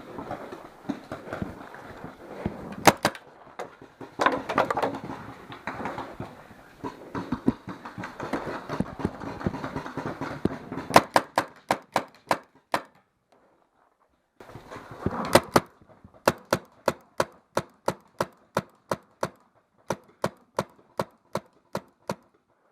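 Paintball markers firing: a quick string of sharp shots about halfway through, then steady shooting at about three shots a second in the second half. Rustling and movement noise come before the shots.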